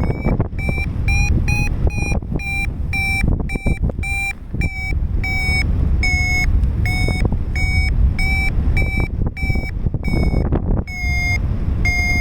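Paragliding variometer sounding its climb tone: short beeps repeating about one and a half to two times a second, the pitch edging up and down slightly, the sign that the glider is climbing in lift. Wind rushes over the microphone underneath.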